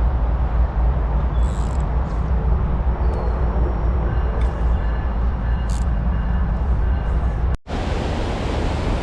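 Steady rush of creek water with a heavy low rumble, with a few faint clicks over it; the sound drops out for an instant near the end and then carries on.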